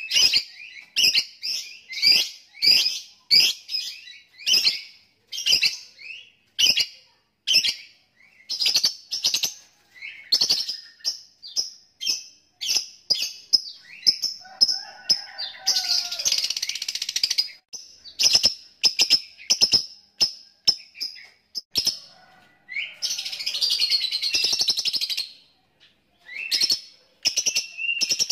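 Lovebird calling in a fast string of short, sharp chirps (the 'ngetik'), broken twice by a longer continuous chattering run of two to three seconds (the long 'ngekek'), about halfway through and again near the end.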